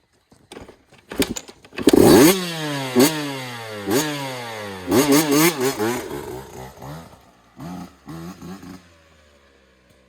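A dirt bike revving hard about two seconds in and riding off, its engine note rising and falling several times, then trailing off to a few short blips and fading out near the end.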